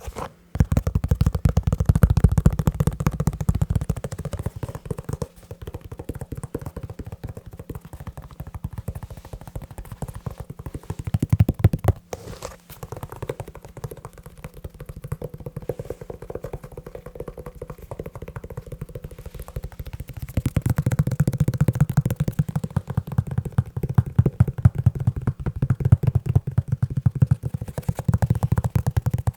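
Fast, continuous tapping on a leather shoe, a dense stream of quick taps that grows louder and heavier at times and pauses briefly twice.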